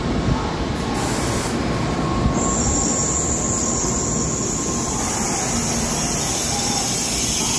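N700-series Tokaido Shinkansen train pulling into the platform, its cars rolling past with a steady rumble of wheels on rail and a few faint thin tones above it.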